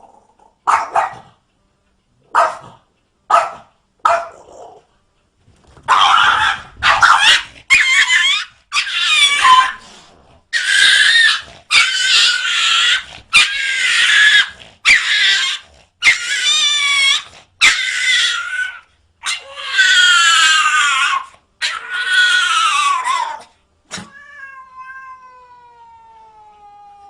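Cat yowling over and over: a few short calls, then about a dozen long wavering caterwauls of around a second each. Near the end comes one long, smoothly falling tone.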